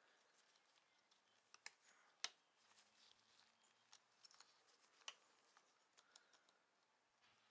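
Near silence broken by scattered light clicks and taps, the sharpest about two seconds in.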